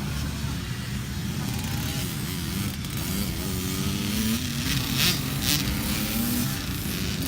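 Motocross motorcycle engines revving, the pitch repeatedly rising and falling as the bikes accelerate and ease off.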